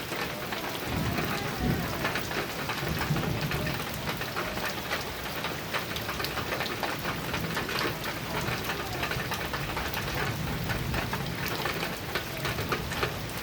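Heavy rain falling on a metal roof, a dense steady patter of sharp drop hits, with thunder rumbling low underneath.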